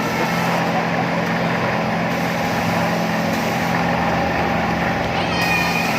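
Steady mechanical hum of an indoor amusement-park airplane ride running, over a dense din of crowd noise, with a high voice calling out near the end.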